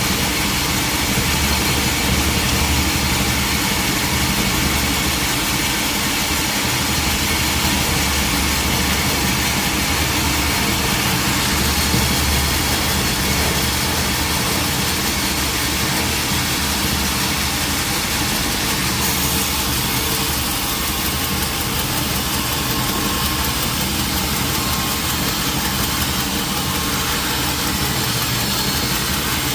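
An engine running steadily at an even speed, with no revving and no sawing strokes.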